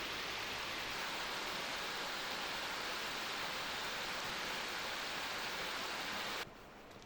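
Mountain stream rushing over rocks, a steady even rush of water that cuts off suddenly about six seconds in.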